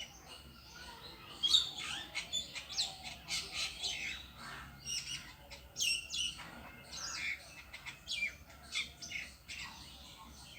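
A bird calling from a tree: a rapid, irregular series of short, high-pitched calls with brief gaps between them.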